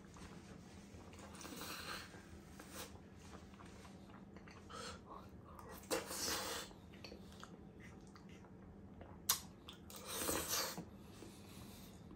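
Close-miked chewing and wet mouth sounds of a person eating mashed potato, coming in soft bursts every few seconds, with one sharp click about nine seconds in.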